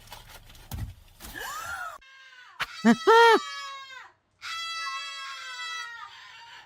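An animal crying out: two loud, short calls that rise and fall in pitch about three seconds in, then one long, steady call.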